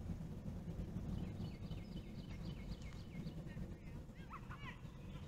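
Birds calling: a quick run of about ten short, high, falling whistles, then a few lower, arching notes near the end, over a steady low background rumble.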